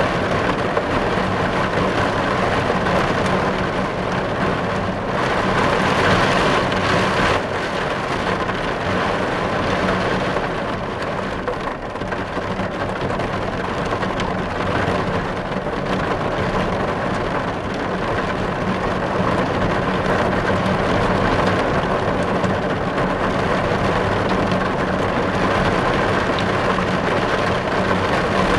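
Heavy rain beating steadily on a car's windows, heard from inside the car, with a heavier spell from about five to seven seconds in.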